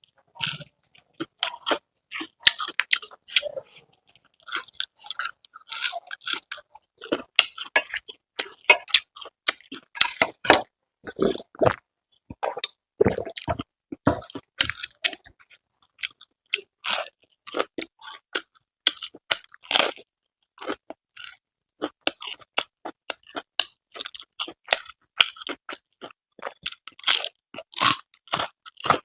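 A person chewing crunchy fried food close to the microphone, with a quick, irregular run of crisp crunches.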